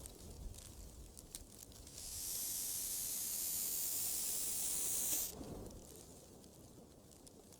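A steady high-pitched hiss that starts about two seconds in, lasts about three seconds and cuts off sharply, over faint background ambience.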